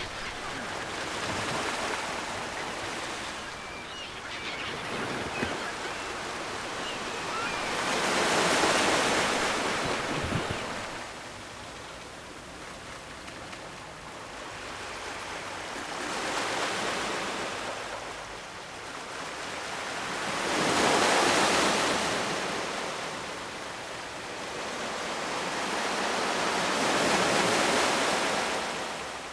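Ocean surf: waves rolling in and washing back, a hiss that swells and fades in slow surges, about five in all, each rising and falling over several seconds.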